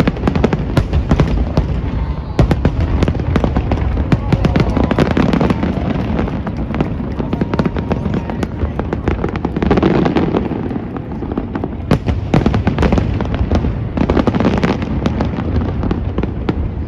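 A fireworks display in a dense barrage, rapid cracks and bangs over a continuous low rumble of booming shells.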